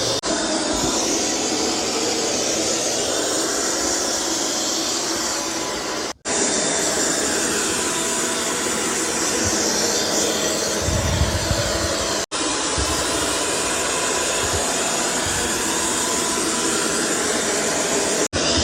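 eufy Omni S1 Pro robot vacuum-mop running, with a steady whir of its suction fan and rotating roller mop. The sound breaks off sharply for an instant three times, about every six seconds.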